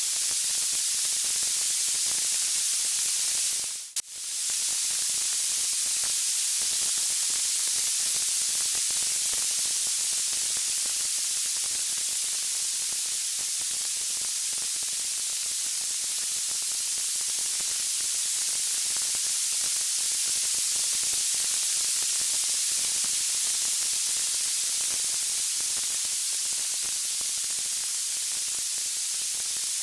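Steady white-noise hiss, strongest in the high end, with no tune or distinct crackles; it briefly drops out and comes back about four seconds in.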